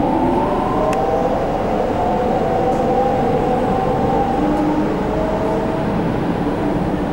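MTR Ma On Shan Line C-Train electric train running between stations, heard from on board: a steady rumble with a whine of several tones that slowly shift in pitch.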